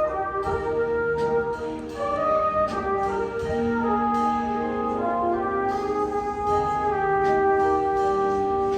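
A high school wind band playing, with brass and woodwinds holding sustained chords that shift every second or so, and a few light percussion strokes.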